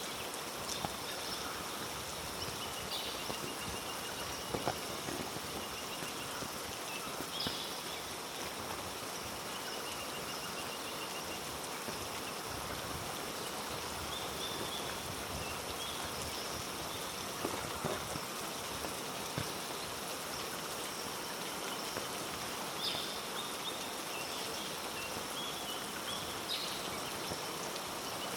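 Heavy rain falling steadily on rainforest foliage, an even hiss with occasional sharp taps. Short high chirps come and go throughout.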